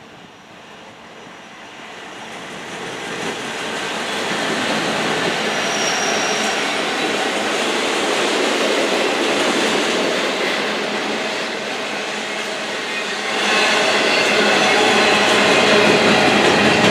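Norfolk Southern freight train passing: steel wheels rumbling and clattering over the rails, growing louder over the first few seconds. It stays loud, with a faint wheel squeal, and swells again near the end.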